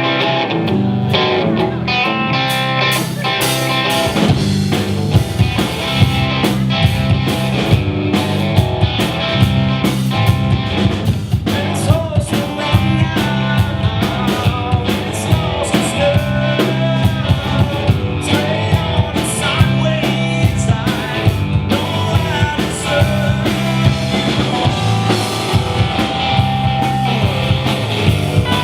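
Live rock band playing: electric guitar over bass and a drum kit keeping a steady beat.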